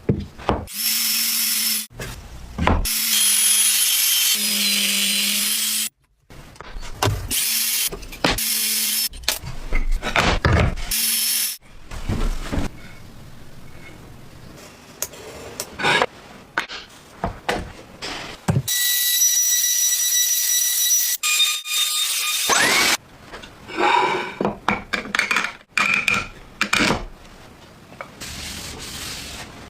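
Woodworking tools at work on wood in short edited snippets that change abruptly every second or two. Power tools run with a steady hum, one with a high whine, between bursts of sawing, rubbing and sharp knocks.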